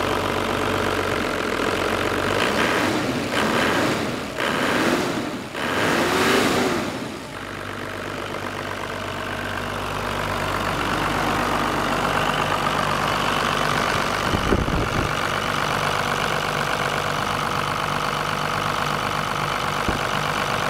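Toyota Land Cruiser HJ61's turbo-diesel inline-six idling steadily and smoothly after a start. About two to seven seconds in there is a stretch of irregular, louder noise, and about two thirds of the way through there is a single thump.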